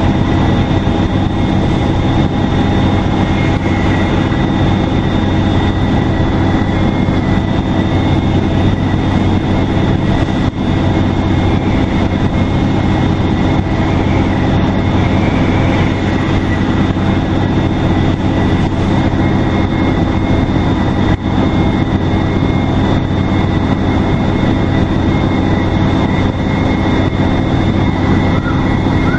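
Detroit Diesel Series 50 four-cylinder turbodiesel of a NABI 40LFW transit bus running steadily under way, with a constant drone and road noise. The turbocharger whistles as a steady high tone over the engine.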